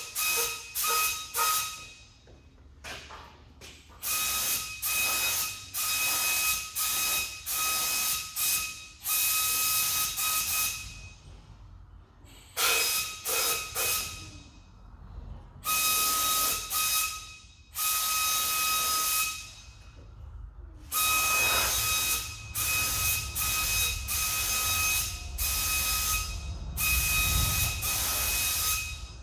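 Air-fed paint spray gun shooting primer, a hiss that starts and stops with each trigger pull, in many short and longer blasts with a steady whistle in the air stream.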